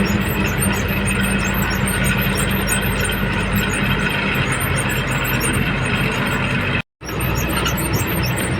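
Goods truck running steadily down the highway, heard from the cab: a constant engine drone over road noise, with faint high chirping on top. The sound drops out completely for a moment about seven seconds in.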